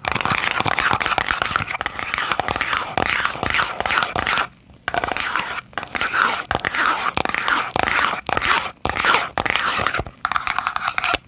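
Fingernails tapping and scratching rapidly on boxes close to the microphone: a dense run of crisp clicks and scrapes, with a short pause about halfway through.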